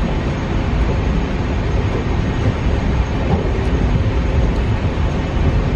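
Passenger train running steadily along the rails, heard from inside the moving coach: a continuous low rumble of wheels on track.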